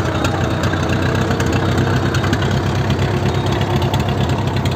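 Suzuki Jimny 4x4's engine running steadily at low revs, with scattered sharp ticks over it.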